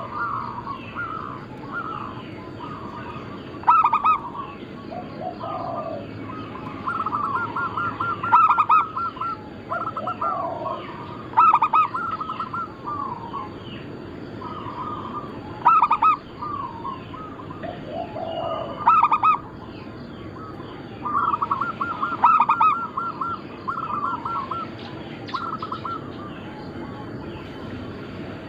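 Zebra doves (perkutut) cooing: repeated phrases of rapid, trilled coo notes every few seconds, some louder and sharper than others, as from several birds.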